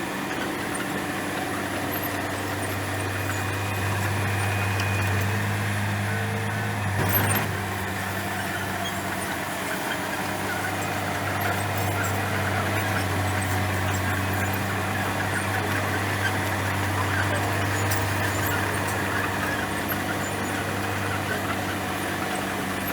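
Komatsu bulldozer's diesel engine running steadily under work, with a single brief knock about seven seconds in.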